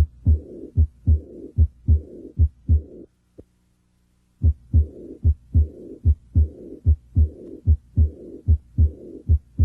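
Stethoscope recording of a heartbeat, about 75 beats a minute, with a diastolic murmur after each beat. The murmur is of the kind that usually indicates heart disease. The recording breaks off about three seconds in and starts again a second and a half later.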